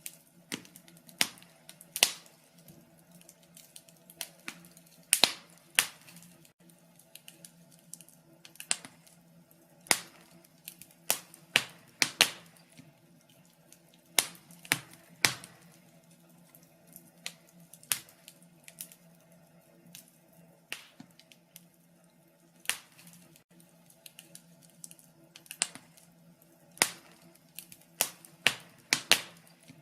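Wood fire crackling in a fireplace: irregular sharp pops and snaps, sometimes several close together, over a faint steady hum.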